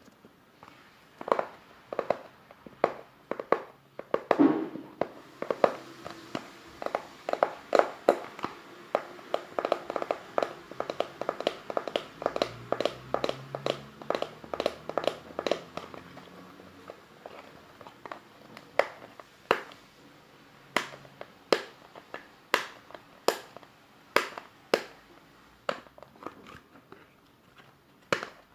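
Rapid, irregular tapping or clicking on a hard object, each tap short and sharp with a slight ring. The taps come thickest in the middle stretch and thin out toward the end.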